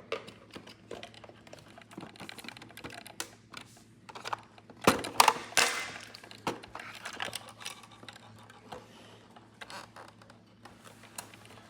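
Small plastic toy pieces and their packaging being handled and unwrapped: a scatter of quick, irregular clicks and crinkles, busiest about five to six seconds in.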